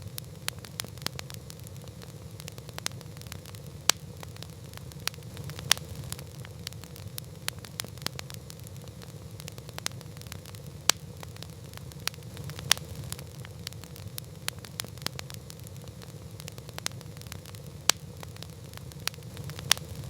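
Campfire burning: wood crackling and popping irregularly over a steady low rumble of the flames, with a dozen or so sharper pops standing out.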